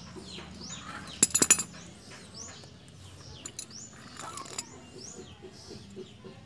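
A small bird chirping over and over in quick, high, falling calls. About a second in comes a short cluster of sharp metallic clicks, the loudest sound, from steel bonsai root cutters working at the roots, with a few fainter clicks later.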